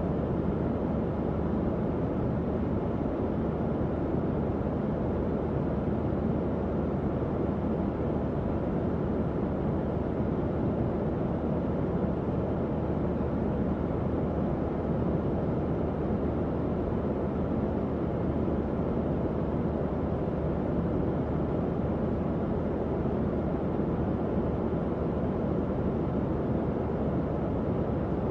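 Tower fan running steadily, giving an even airy whoosh that sits mostly low and middle in pitch, with a faint low hum underneath.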